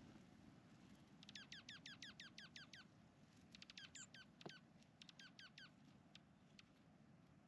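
Faint rapid series of high, down-slurred chirps from a small bird, at about five a second, in three short bouts and then a few single chirps.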